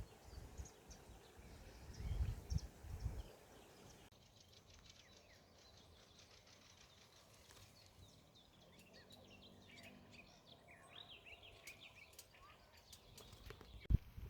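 Faint birdsong: scattered short chirps and trills of small birds, busiest past the middle. A low rumble comes about two seconds in, and a single sharp click near the end.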